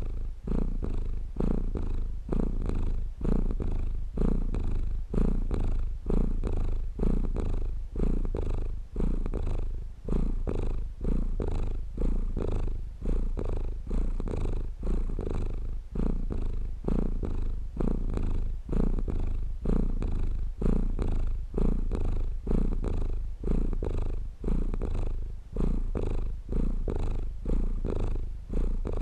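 Domestic cat purring close up, a deep steady purr that swells and eases with each breath, about once a second.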